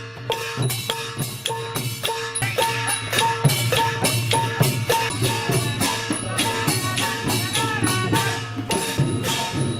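Thai klong yao long-drum ensemble playing: a fast, steady beat of drums and shaken or struck small percussion over a held melodic line.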